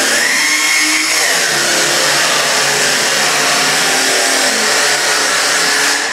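A small electric motor, such as a blower or vacuum, running with a steady rush and a wavering high whine, then cutting off suddenly about six seconds in.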